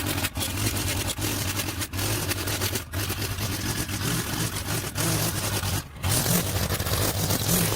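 Gas string trimmer running steadily while cutting overgrown grass along an edge, with a few brief drops in the sound.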